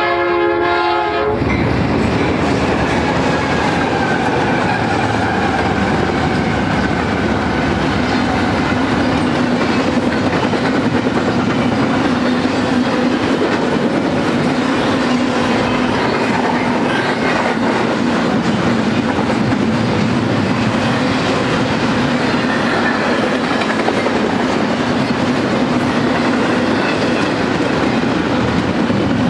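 BNSF double-stack intermodal train rolling past, a steady rumble and clatter of well cars and wheels on the rails. A locomotive horn sounds for about the first second, then stops.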